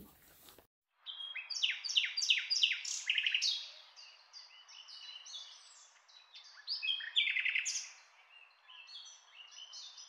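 Songbird singing, starting about a second in: loud phrases of high whistled notes, quick downward sweeps and rapid trills, with softer scattered notes between the phrases.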